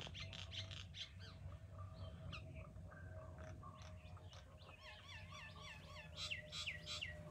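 Birds chirping, many short quick notes, turning near the end into a run of repeated swooping calls, about three a second, over a faint steady hum.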